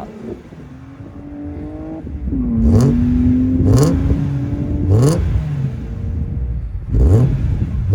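Subaru Legacy Spec B's 3.0-litre EZ30 flat-six engine running and revving, its pitch climbing steadily, then rising sharply in quick surges about four times.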